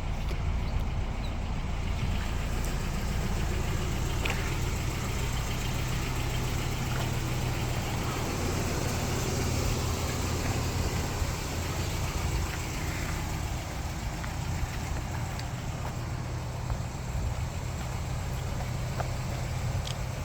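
1987 Toyota pickup's engine idling steadily.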